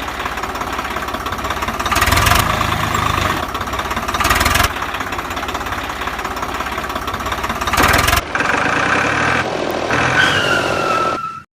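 A motor running steadily, with three louder surges; the sound changes about two-thirds of the way in, a falling whine is heard near the end, and it then cuts off suddenly.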